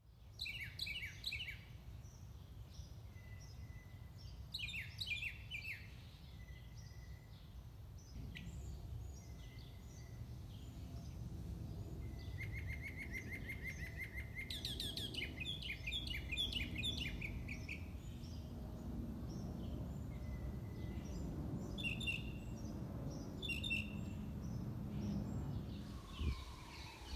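Songbirds singing and calling: repeated chirping phrases and short trills, with a steady low rumble underneath.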